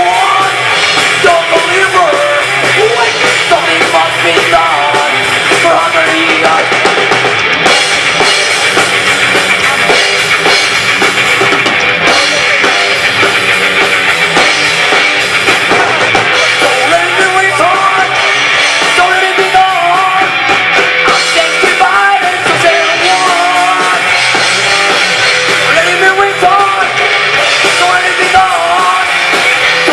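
Live rock band playing loudly: a drum kit and a full band running continuously.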